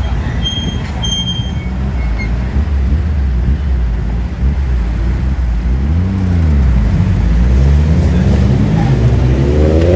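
A car engine running with a deep, steady rumble, then blipped up and down a few times from about six seconds in, with another rev starting just at the end.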